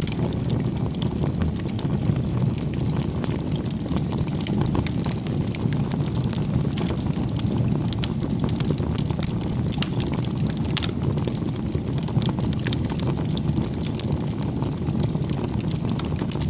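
Campfire burning: a steady low rush of flame with frequent small crackles and pops from the burning wood.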